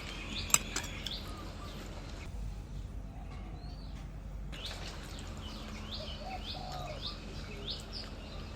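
Small birds chirping over and over in short, high chirps, with a quieter stretch in the middle. A single sharp click sounds about half a second in.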